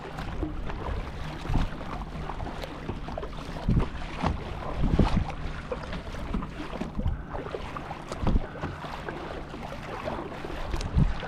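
Fishing kayak underway on the sea: water splashes and laps against the hull, with irregular low knocks every second or two over a steady low hum.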